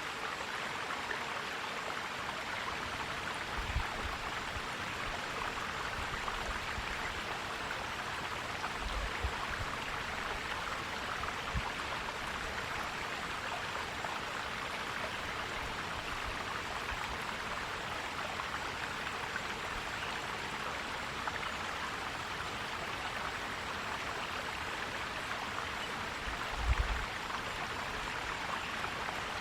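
A forest stream flowing over rocks, a steady rushing and gurgling, with a few brief low thuds scattered through.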